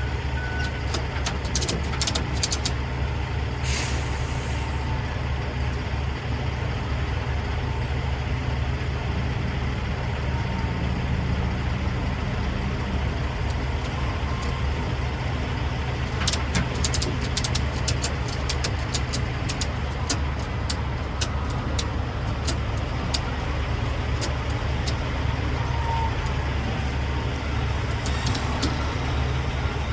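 Semi truck's diesel engine idling steadily, with a short hiss of air about four seconds in, like the air brake being set, and scattered light clicks in a few clusters.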